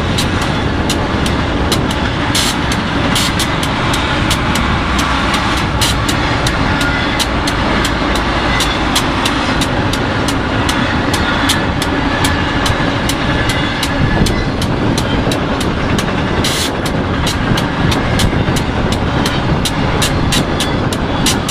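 BNSF freight train rolling past at speed: a loud, steady rumble of cars and wheels on rail, with frequent sharp clicks throughout.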